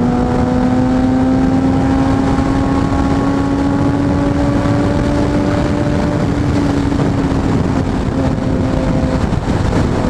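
Kawasaki Ninja ZX-6R's inline-four engine under way at road speed, its note rising slowly, then holding and easing down, dropping away briefly near the end, under heavy wind rush over the microphone.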